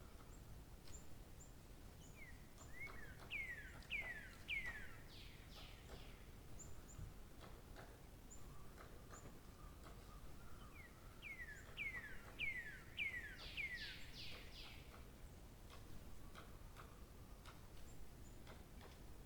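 A songbird singing two phrases, each a quick run of about six clear down-slurred notes, about ten seconds apart, with scattered short high chips between them over a faint background hiss.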